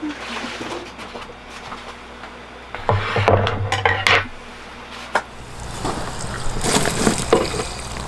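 Dishes and glassware clinking and knocking as they are handled, with several louder clatters about three seconds in and again in the second half.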